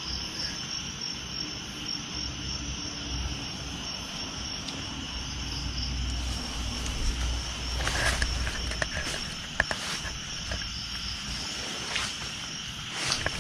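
Steady night chorus of crickets, a continuous high chirring, with a few scattered clicks and rustles in the second half.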